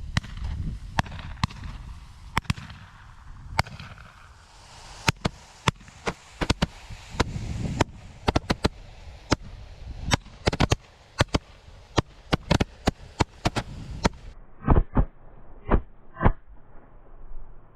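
A pack of Roman candles firing in a holder: a rapid, irregular string of sharp shot pops over the steady hiss of the burning tubes. About fourteen seconds in the sound turns duller, with fewer, muffled pops.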